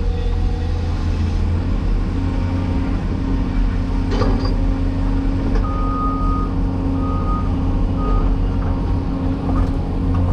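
Cat 336E hydraulic excavator's diesel engine running steadily under work. A knock sounds about four seconds in, and a warning beeper sounds three short beeps around the middle.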